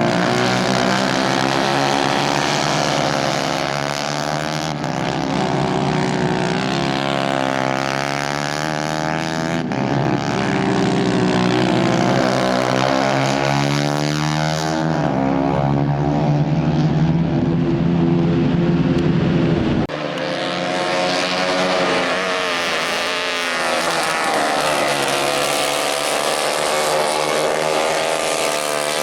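Several 150 cc racing kart engines running at high revs, their pitch rising and falling as the karts accelerate, brake and pass. About two-thirds of the way through the sound changes abruptly and the low rumble drops away.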